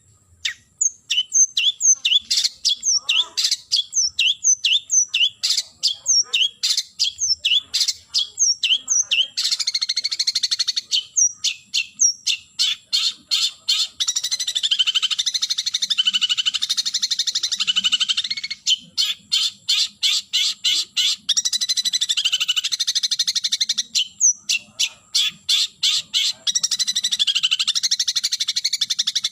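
Long-tailed shrike (cendet) singing a challenge call to a rival. It starts as a string of short, sharp notes about three a second, then about ten seconds in turns to a fast, harsh chattering, broken by quick runs of rapid-fire notes.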